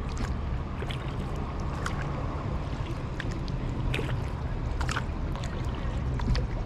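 Kayak paddle strokes in lake water: small splashes and drips about once a second over a steady low rumble of wind and water on the microphone.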